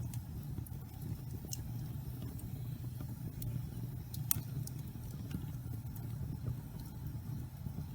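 Damp pine logs burning in a fireplace: a steady low rumble of flames with scattered sharp crackles and pops, the loudest a little past four seconds in.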